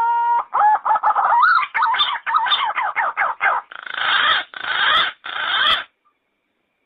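Yellow-footed green pigeon singing: a rising whistle, then a quick run of warbling, wavering notes, ending in three rougher, harsher notes near the end of the phrase.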